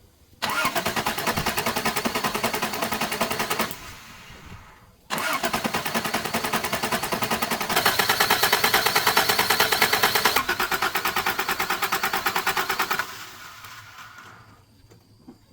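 Old Jeep engine turned over by its starter motor in two tries, a short one and a longer one of about eight seconds, with a fast even pulsing from the cranking. Each try stops suddenly.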